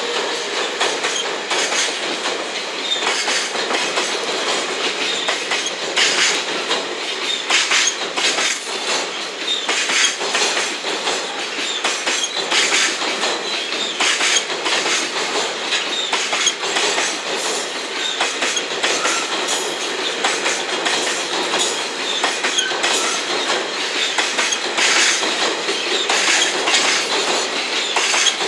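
A freight train's locomotive bogies, then its Koki container flatcars, roll past close by. The wheels run with a steady rolling noise, broken by a continual run of knocks as the wheels cross the rail joints.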